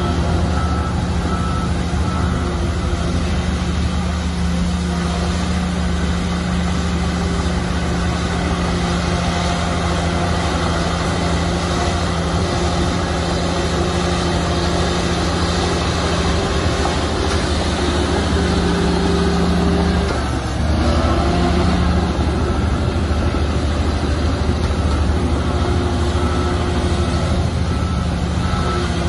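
Heavy diesel earthmoving machinery running steadily under load, its engine note dipping briefly and picking back up about two-thirds of the way through. A faint reversing beeper sounds near the start and again near the end.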